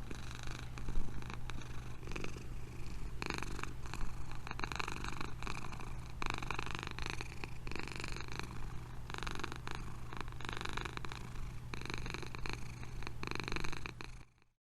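A cat purring steadily, rising and falling in long swells with each breath, then cutting off suddenly just before the end.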